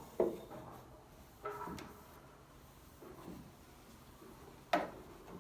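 Knocks and clatters of household items being handled and set down, with three sharper knocks: one just after the start, one about a second and a half in, and one near the end.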